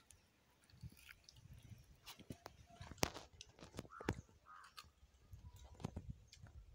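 Faint chewing of a mouthful of fried pork eaten by hand, with scattered sharp clicks and crunches, the loudest about three seconds in.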